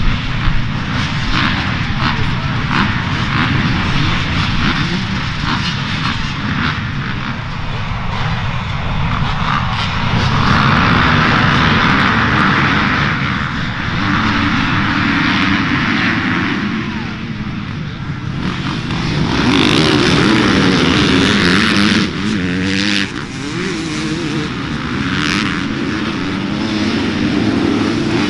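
Dirt bike engines running hard, their pitch rising and falling as the riders open and close the throttle through the track.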